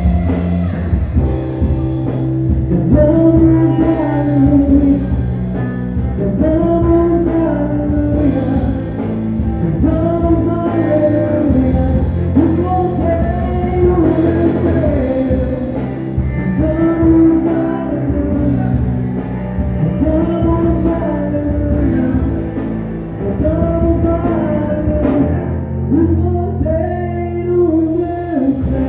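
Live worship band playing a slow song: a sung or played lead melody in short rising-and-falling phrases, repeating about every three and a half seconds over steady sustained bass notes.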